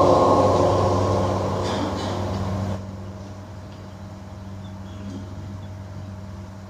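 The echoing tail of a man's drawn-out call of "Allahu akbar" over a mosque sound system fades for about three seconds, then cuts off abruptly. After it only a steady low hum remains.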